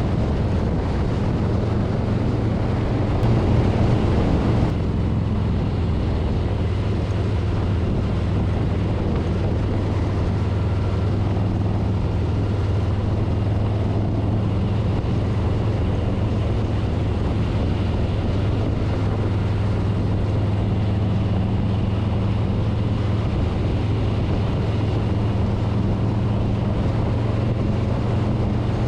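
Harley-Davidson Street Bob's V-twin engine running steadily at road speed, with wind buffeting the microphone; the wind rush swells briefly about three to four seconds in.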